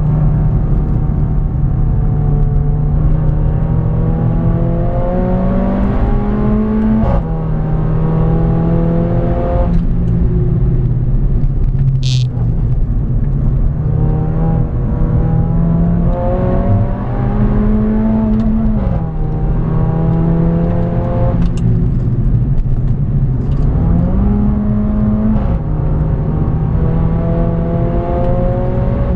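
Mercedes-Benz A45 AMG's turbocharged four-cylinder engine accelerating hard, heard from inside the cabin: the engine note climbs and drops back at each upshift, several times over, easing off briefly about ten seconds in. A short high-pitched squeal sounds about twelve seconds in.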